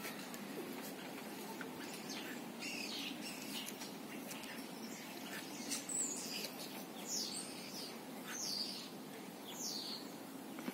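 Small birds chirping outdoors, a run of short high chirps that each fall in pitch and come about every second and a half in the second half. Under them is a faint steady low background hum.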